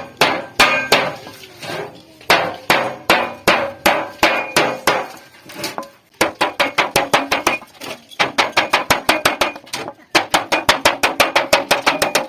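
A hammer beating sheet metal salvaged from an old refrigerator as it is shaped into a pot. Quick runs of sharp, ringing metallic blows, about four or five a second, broken by brief pauses.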